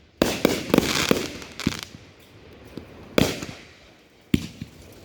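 Consumer aerial fireworks going off: a quick run of sharp bangs in the first two seconds, then single bangs about three and four seconds in, with crackling and hiss in between.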